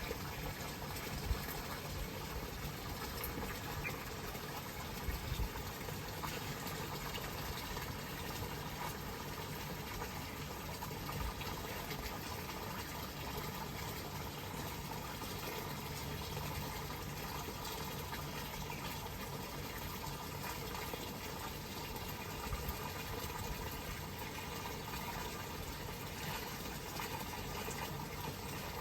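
Steady rush of running water, even and unbroken, with a few brief low thumps in the first several seconds.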